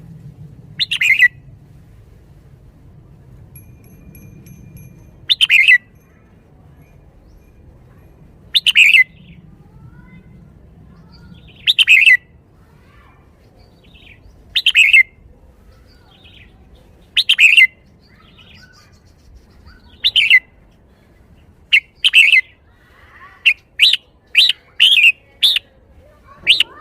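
Red-whiskered bulbul singing short, loud phrases about every three seconds, then several in quick succession in the last few seconds.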